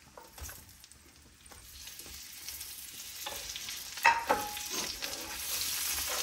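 Sliced onion, tomato and garlic sizzling in hot pork fat in a cast-iron skillet, the sizzle building up over the first couple of seconds, while a wooden spatula stirs and scrapes. A sharp knock with a brief ring about four seconds in.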